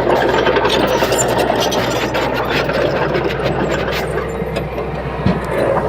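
Bulldozer diesel engine running steadily under load, with a run of short clicks and rattles over it.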